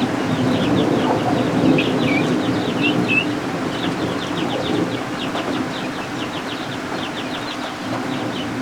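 Baby guinea fowl keets peeping: a quick run of short, high chirps over a steady hiss of rain.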